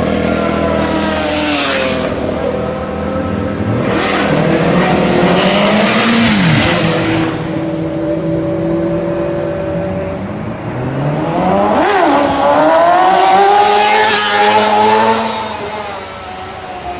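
Sport motorcycle engines revving hard as they accelerate past, with several engines running at once. The pitch climbs and then drops sharply as a bike goes by, about six seconds in and again about twelve seconds in.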